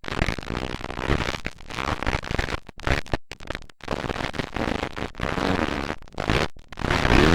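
Motocross dirt bike engines racing and revving, loud and crackly, with a rising rev near the end and a few brief sharp cut-outs.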